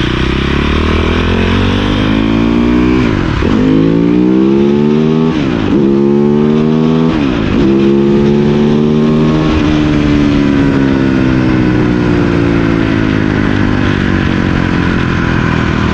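Cannondale 440 dirt bike's single-cylinder four-stroke engine accelerating hard under load, its note climbing and dropping sharply at three upshifts, then pulling up once more and easing off to a steadier run.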